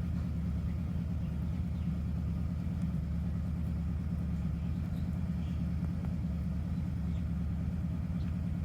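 Steady low rumble, unchanging, with a few faint ticks over it.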